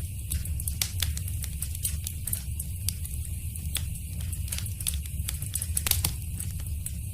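Wood fire in a fireplace crackling, with frequent sharp pops and snaps over a steady low rumble of the flames; one louder pop comes about six seconds in.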